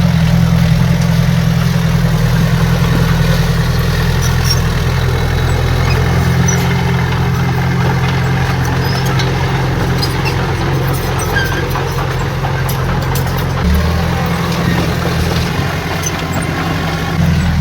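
Heavy earthmoving machine's diesel engine running steadily at a low, even pitch, with its note changing briefly about 14 seconds in and again near the end.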